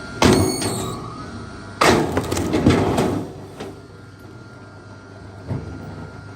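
Heavy blows struck into a large log: the first, about a quarter second in, leaves a brief metallic ring; the second, just under two seconds in, is followed by a run of cracks for about a second. A lighter knock comes near the end.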